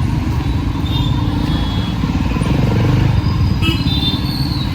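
City road traffic: the steady engine rumble of passing vehicles, with a few brief high-pitched squeaks near the end.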